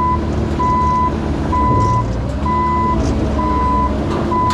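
Excavator's diesel engine running, with its travel alarm giving a steady beep about once a second. A few faint knocks sound near the end.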